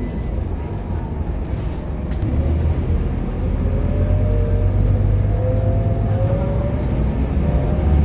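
Scania K230UB bus's diesel engine pulling under acceleration, louder from about two seconds in, with a whine that rises steadily as the bus gains speed.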